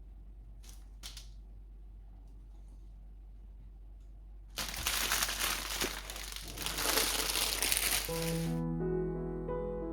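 Quiet room tone with two faint clicks, then a loud rustling noise for about four seconds from about halfway in. Soft piano music starts near the end.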